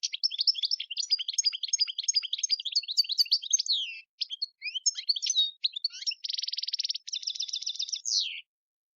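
European goldfinch singing: a long, fast run of varied twittering and chirping notes, with a short buzzy trill and a rattle toward the end, breaking off shortly before the close.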